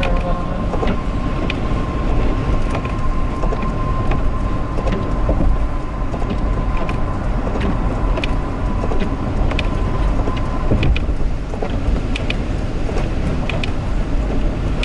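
Road and engine noise inside a moving car: a steady low rumble with a thin steady whine that stops about eleven seconds in, and scattered light clicks.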